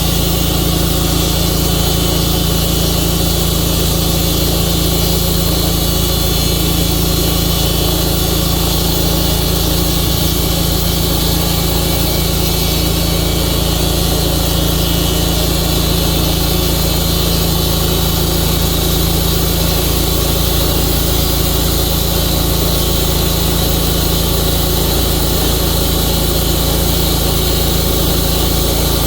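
Sawmill engine running steadily at an even pitch, with no change in speed or load.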